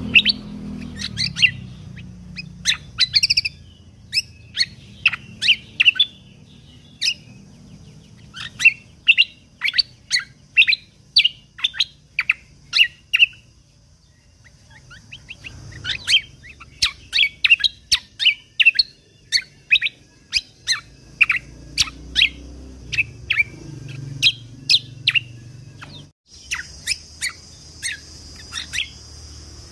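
Kecial kombok (cucak kombo) songbird singing a string of short, sharp, downward-sweeping shot notes in fast runs, about two a second, pausing for a second or two about halfway through.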